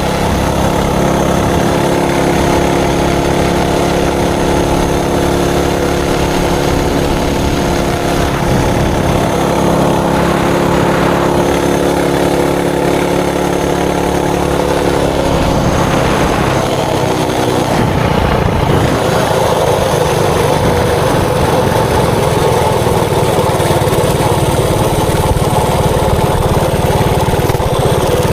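Mini bike's Predator 224cc single-cylinder four-stroke engine running at a steady speed. About halfway through, its note shifts and breaks up as the revs change, and it runs rougher after that.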